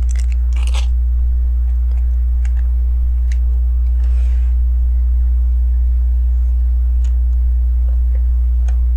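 A steady low hum, with a few light, sparse clicks and taps of small plastic LEGO pieces being handled and pressed into place, and a brief soft rustle about four seconds in.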